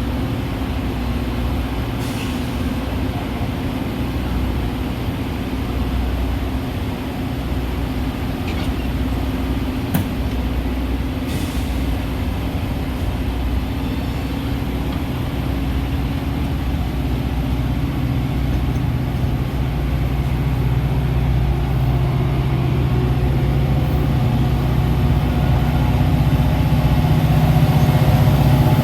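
Metra commuter train's steady low rumble, growing louder over the last ten seconds or so, with a single sharp click about ten seconds in.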